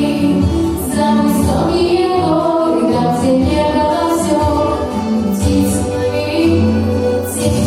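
Song: a female voice singing held notes over backing music.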